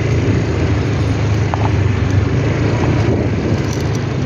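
A vehicle running steadily: a low engine drone with road noise.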